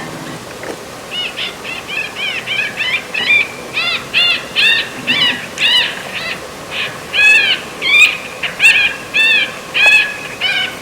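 Electronic predator caller playing a whimpering distress sound: a fast, even run of short, high, rising-and-falling yelps, about two to three a second, after a brief lull near the start.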